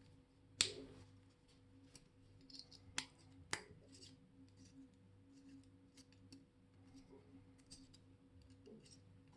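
Small metal clicks and taps of watchmaker's tools handling parts of a Molnija 3601 chronograph movement. There is one sharp click under a second in, two more about three and three and a half seconds in, and fainter ticks between them, over a faint steady hum.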